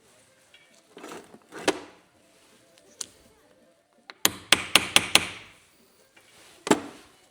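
Sharp hammer knocks: a single knock, a light click, then a quick run of about five blows in a second and one last knock near the end, as a new top mount bearing is fitted to a BC Racing coilover.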